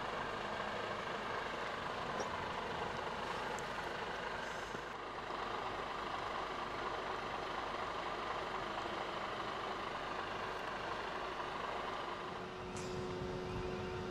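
Heavy truck's diesel engine running steadily, with the engine note changing to a steadier hum near the end.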